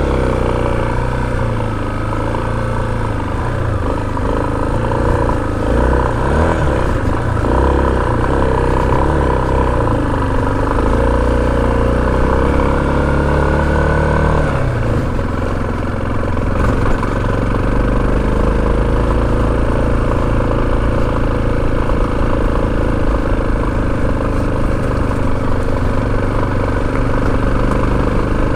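Motorcycle engine running, its revs rising and falling, then dropping about halfway through to a steady, lower, even note.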